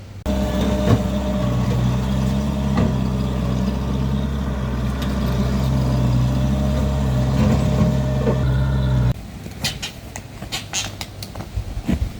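An engine running steadily at a constant speed, starting suddenly and cutting off abruptly about nine seconds in, followed by a few sharp knocks.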